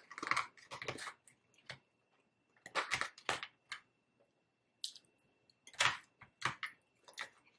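Close-miked chewing and crunching of salad, in irregular clusters of crisp crunches: one at the start, another about three seconds in, and more near the end.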